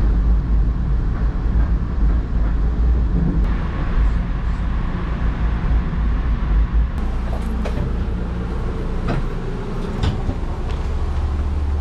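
Metro-North commuter train running, a heavy low rumble heard from inside the car. About seven seconds in the sound changes, and a few sharp knocks and clunks follow.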